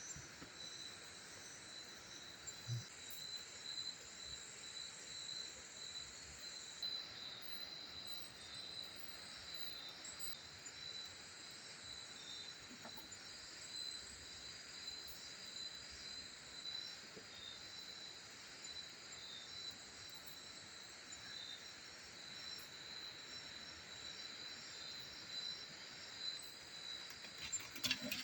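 Forest insects, crickets or similar, calling steadily in a continuous high-pitched chorus, with a few faint knocks here and there.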